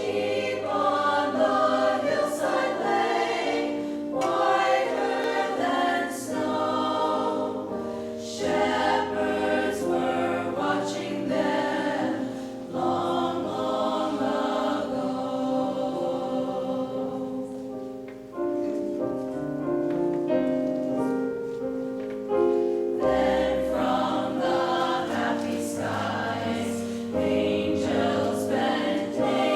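A choir singing a choral carol arrangement in several voice parts, phrase by phrase, with a brief dip in loudness a little past halfway before the voices come in again.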